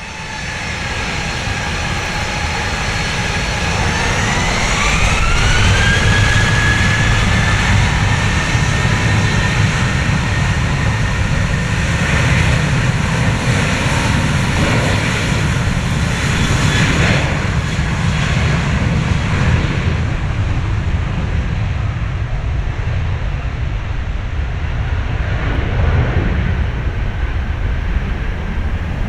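Boeing 737-800's CFM56-7B jet engines spooling up to takeoff thrust: a whine rises in pitch about four to six seconds in, then holds over a steady loud rumble through the takeoff roll and climb.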